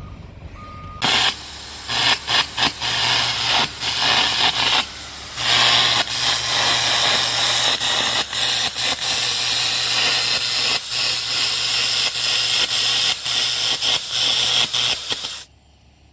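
Metal-cutting torch hissing loudly in long stretches, stopping and restarting several times, over a steady low hum.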